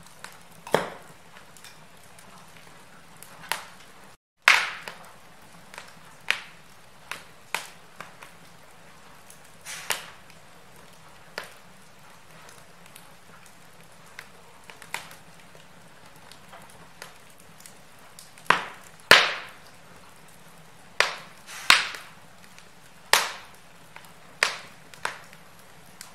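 Wood fire in a fireplace crackling: irregular sharp pops and snaps of burning logs over a faint steady hiss, a few pops much louder than the rest. The sound drops out for a split second about four seconds in.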